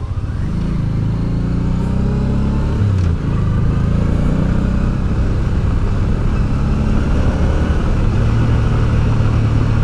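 Honda Deauville V-twin motorcycle engine running at a steady cruise, with wind and road noise. The engine tone dips briefly about three seconds in, then holds steady.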